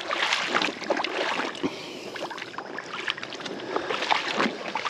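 Shallow creek water splashing and sloshing in irregular short splashes, as a small bass is handled and let go in the shallows.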